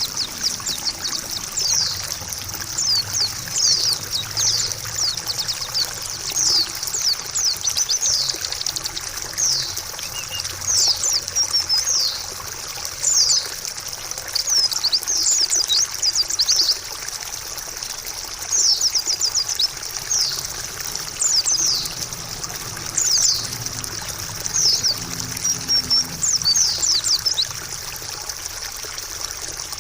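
White-eye (pleci) singing in repeated bursts of quick, high chirping phrases over the steady sound of trickling water.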